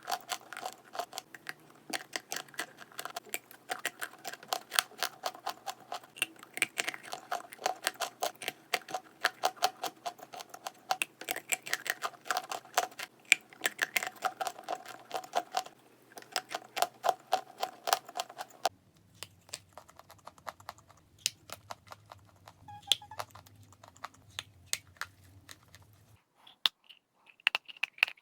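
Chalk being chewed and crunched: a dense run of rapid crackling crunches. About two-thirds of the way through it changes to sparser, softer crunches over a low hum.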